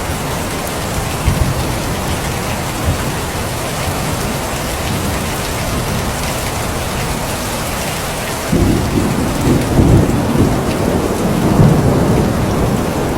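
Steady heavy rain hissing, with a low rumble of thunder that starts abruptly about two-thirds of the way through and swells near the end.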